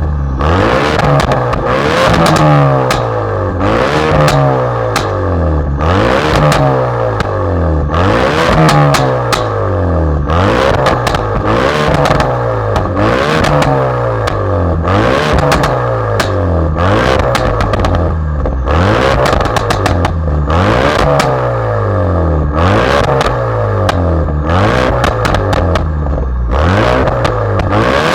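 Ford Focus RS Mk3's 2.3-litre turbocharged four-cylinder and exhaust revving over and over, pitch climbing and dropping back about once a second, with sharp cracks between the revs.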